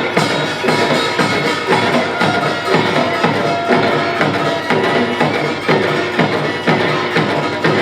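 Korean pungmul percussion ensemble playing a fast, steady driving rhythm, with drum strokes repeating evenly.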